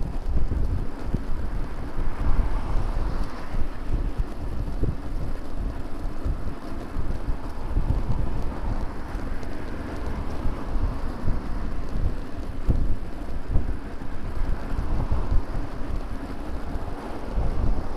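Wind rumbling on the microphone of a camera on a moving bicycle, over the noise of road traffic that swells as vehicles pass, several times.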